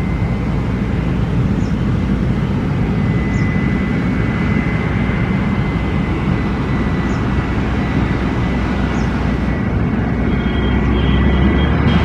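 Jet airliner engines on approach to land, a steady rushing noise with a thin high whine, growing louder near the end as the plane comes closer.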